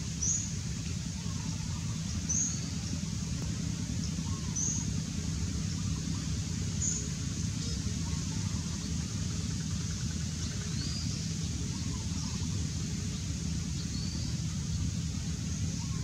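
A small songbird gives brief, high chip notes about every two seconds, the later ones fainter and slightly lower. A steady low rumble runs underneath.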